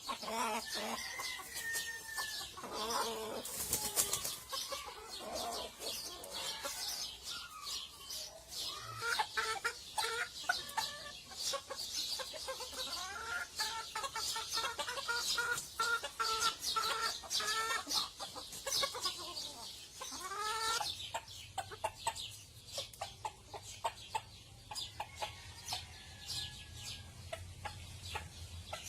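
Polish chickens clucking and calling over and over, some calls sliding in pitch, among many short clicks and rustles from the birds moving about.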